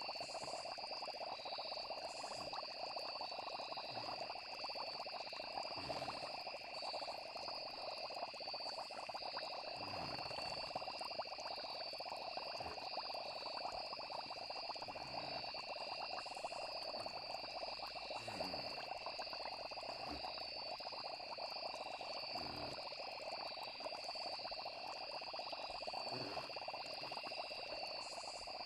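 Steady night chorus of frogs and crickets, an unbroken high insect trill over a dense frog chorus, with soft low pops every few seconds.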